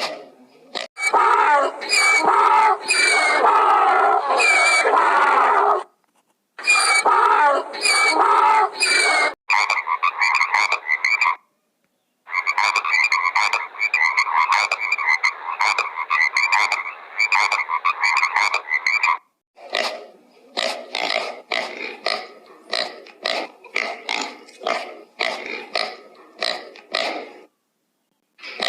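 Rapid, chattering animal calls, croak-like and densely pulsed, in several short clips that cut off abruptly one after another with brief silences between.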